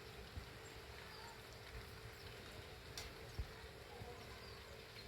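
Faint, scattered chirps of house sparrows over a background hiss and a steady low hum, with a few light clicks and a soft thump about three and a half seconds in.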